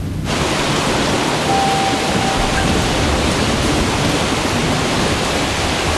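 Heavy rain pouring down, a steady loud hiss that cuts in sharply just after the start.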